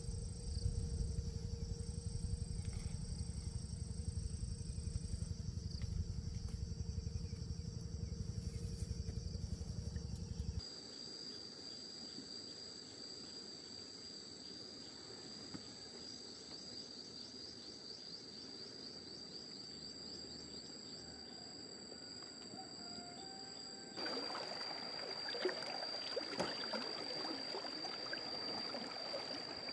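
Steady high-pitched insect drone throughout. For about the first ten seconds a heavy low rumble sits under it, and from about twenty-four seconds running water comes in.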